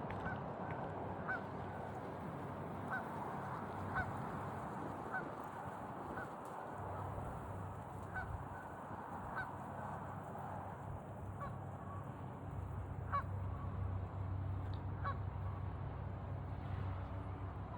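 Geese honking, short calls repeated irregularly every second or two, over a steady rush of running water.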